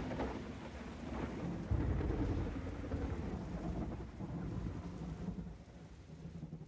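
Thunder rumbling over steady rain, a thunderstorm sound effect, with the rumble heaviest about two seconds in and the whole thing fading out near the end.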